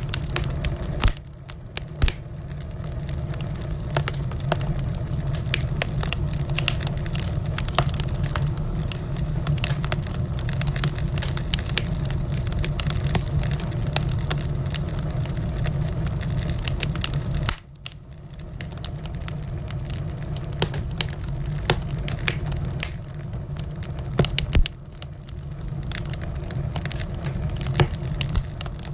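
Wood fire in a fireplace crackling, with many sharp snaps and a few louder pops over a steady low rumble of the flames. The background drops suddenly three times and builds back up.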